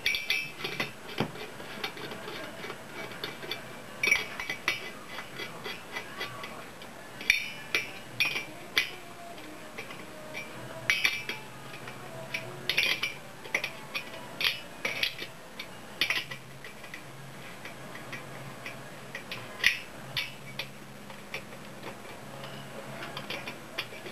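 Irregular metallic clinks and clicks of a socket wrench working nuts onto an engine during assembly.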